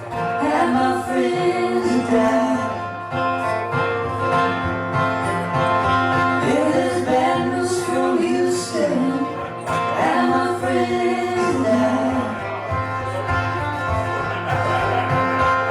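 A live band playing a country-blues song: a melodic lead line that bends in pitch, over plucked guitar and a steady low bass note.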